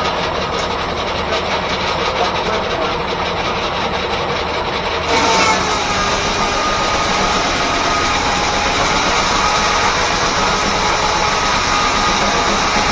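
1880s R.R. Howell left-hand sawmill driven by a steam engine, running steadily. About five seconds in the sound turns suddenly louder and hissier, with a steady high whine.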